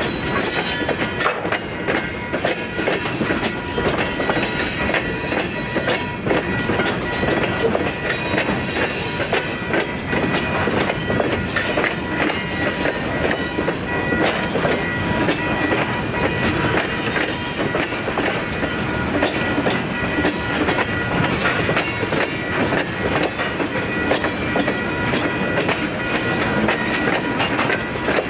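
Freight train cars rolling steadily past, their wheels clicking over the rail joints, with a steady high ringing tone running underneath.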